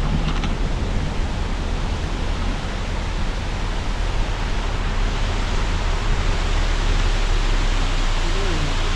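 Steady road noise of a car driving: an even hiss of tyres over a low rumble.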